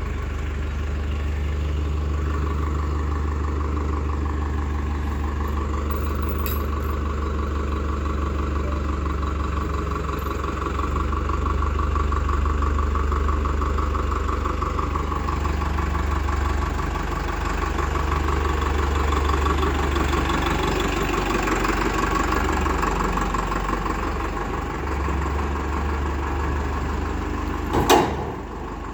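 Heavy diesel engine running steadily near idle, rising a little in places, with a single sharp knock near the end.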